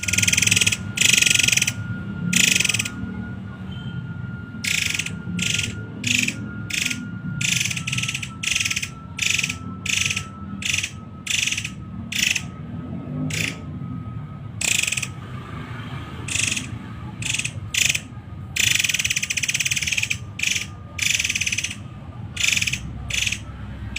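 Murai air bird giving harsh, high-pitched rasping calls in quick succession, one to two a second, with a longer unbroken run of calls about three quarters of the way through. A faint thin steady whistle-like tone lies underneath, sinking slowly in pitch.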